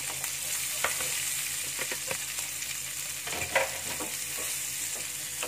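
Sliced shallots, garlic and red and green chillies sizzling in oil in a non-stick frying pan while a wooden spatula stirs them, scraping and knocking against the pan a few times, the loudest knock a little past halfway. The aromatics are being stir-fried until fragrant.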